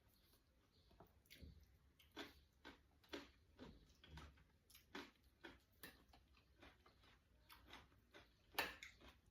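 Quiet eating sounds: a string of soft, irregular clicks and taps, roughly two a second, from chewing and utensils, with one louder click near the end.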